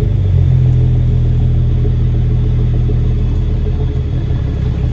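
Caterpillar C13 diesel engine of a straight-piped Kenworth W900B dump truck running steadily at an even low pitch.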